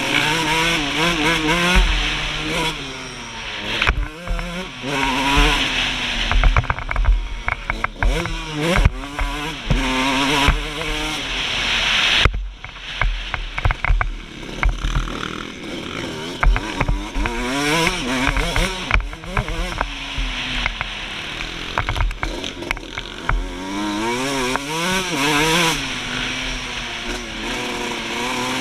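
Suzuki RM125 two-stroke single-cylinder motocross engine revving hard, its pitch climbing and falling over and over as the rider accelerates, shifts and backs off, with wind hiss on the camera microphone and scattered knocks from the track. The engine briefly drops off about twelve seconds in.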